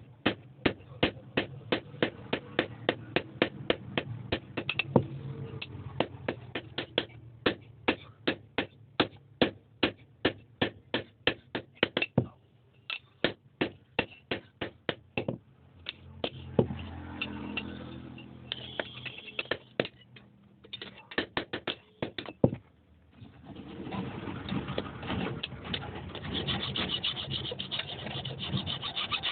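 Hand hammer blows striking metal in a quick steady rhythm, about three a second, with short pauses. About twenty-three seconds in, the hammering gives way to a continuous rough scraping.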